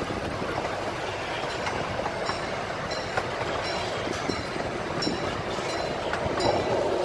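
Small-scale park train rolling along the track with a steady running rumble; from about two seconds in, pairs of light wheel clicks over the rail joints come about once a second.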